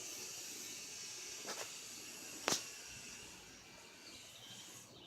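Quiet outdoor background with a steady high-pitched hiss, and two short clicks, one about a second and a half in and a louder one about a second later.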